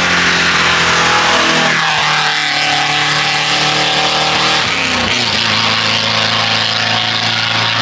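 A high-performance car engine running hard at high revs, its pitch dropping sharply twice, about two seconds in and again about five seconds in.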